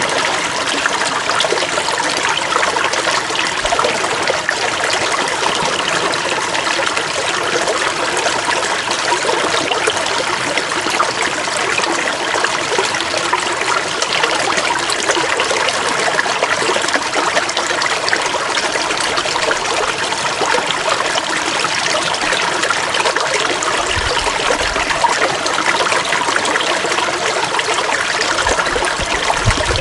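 Running water flowing steadily, an even splashing rush like a stream, with a couple of brief low rumbles near the end.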